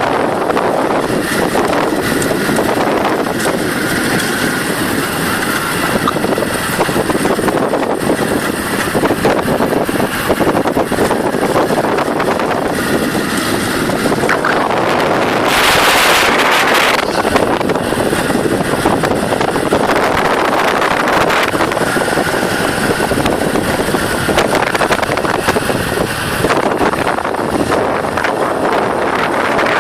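Wind buffeting the microphone on a moving motorbike, over the engine and road noise of the ride. A louder rush of noise comes about halfway through.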